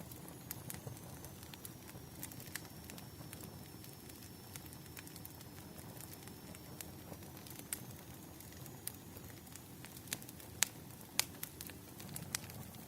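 Wood fire crackling: irregular sharp pops and snaps over a low steady rumble, with a few louder pops about ten to eleven seconds in.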